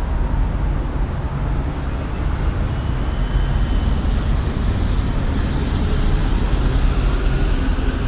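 Street traffic: a motor vehicle running close by with a steady low rumble, and a rising hiss from about five seconds in.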